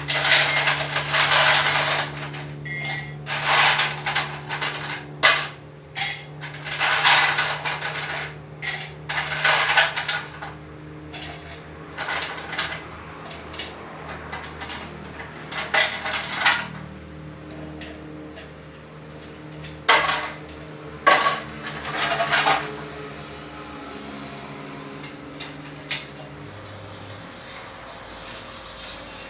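Ice cubes and glassware clinking and rattling in a series of short bursts, stopping a little over 20 seconds in.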